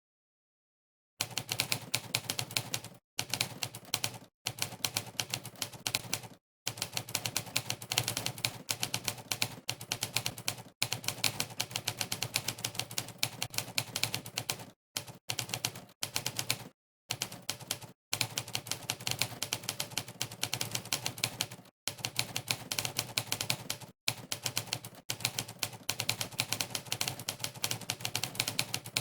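Monkeytype's typewriter keypress sound effect: a sampled typewriter key strike for every keystroke during fast typing, coming in rapid runs of clicks broken by short, completely silent pauses. It starts about a second in.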